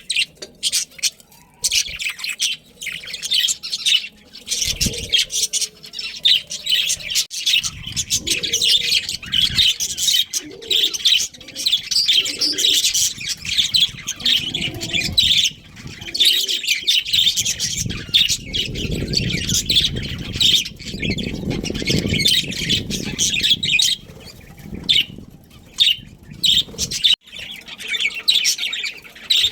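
A colony of budgerigars chattering, a dense, continuous stream of rapid high chirps and warbles from many birds at once. A low rumbling noise sits underneath for several seconds in the middle.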